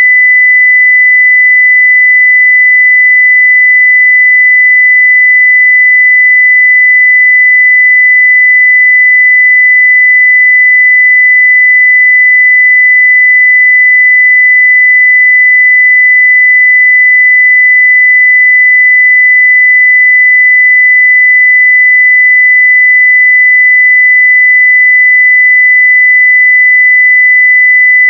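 A continuous 2 kHz sine-wave test tone at full level (0 dB), one pure pitch held steady without change.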